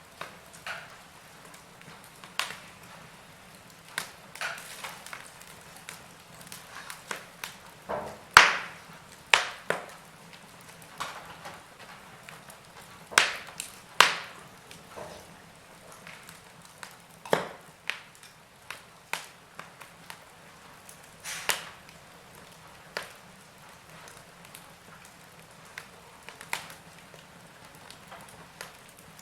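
Wood fire in a fireplace crackling: irregular sharp pops and snaps of burning logs over a faint steady hiss, with a few louder pops about eight, thirteen to fourteen and seventeen seconds in.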